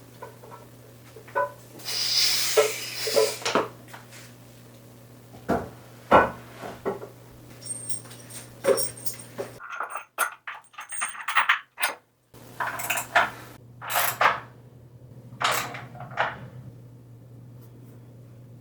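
Small metal parts and tools clinking and clattering as an air compressor's pressure switch and regulator assembly is taken apart, with a scraping rustle about two seconds in. A steady low hum runs underneath and drops out for a few seconds midway.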